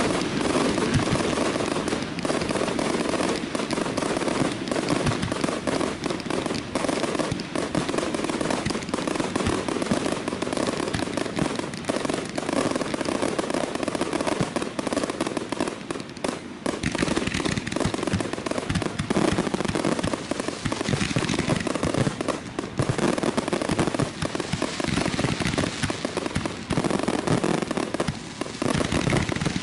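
Aerial fireworks going off close overhead: a dense, continuous barrage of bursts and crackling, with many reports every second.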